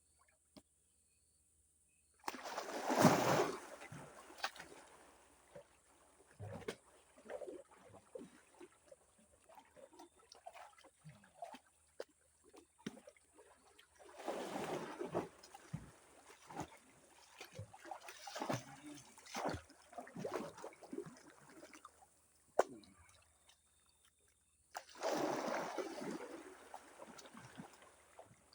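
Water splashing and sloshing as a person wades in and moves through it, with a big splash about three seconds in, more splashing around the middle and near the end, and dripping and trickling between.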